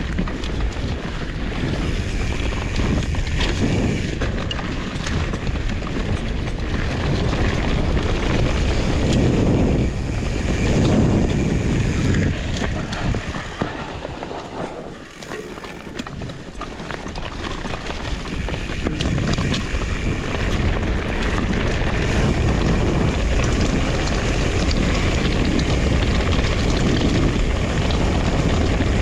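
Wind buffeting the microphone with a heavy low rumble, as from a mountain bike rolling fast along a trail; it eases for a moment about halfway through, then picks up again.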